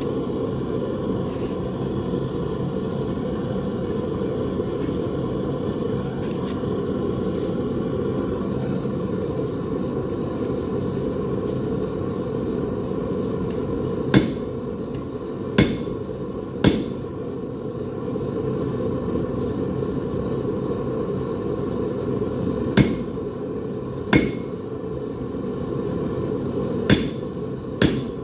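Blacksmith's hammer striking metal on an anvil: single, separate blows from about halfway through, about seven in all, one to several seconds apart, over a steady low rushing noise.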